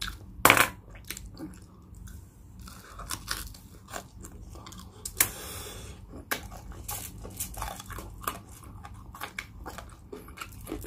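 Close-miked chewing of crispy pata (deep-fried pork leg), with crunching as the crackling skin breaks. The sharpest crunches come about half a second in and about five seconds in.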